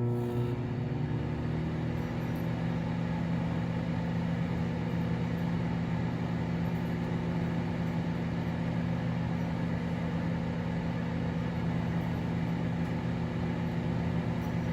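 Microwave oven running through a timed cooking cycle: a steady electrical hum with a low buzz, unchanging throughout.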